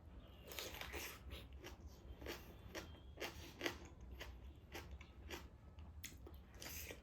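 A person chewing and biting food close to the microphone, with wet, crunchy mouth noises coming irregularly several times a second: eating taro root with dried meat.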